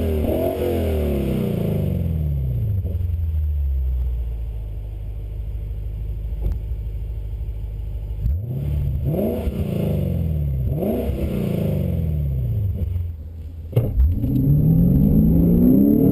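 Lexus RC F's 5.0-litre V8 revved in several sharp blips at standstill, each falling back to a steady idle. Near the end, after a short break, it pulls away under full throttle with the revs climbing.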